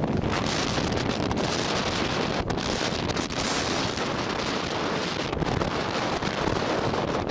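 Wind buffeting the microphone, a steady rushing noise with gusty low rumbling.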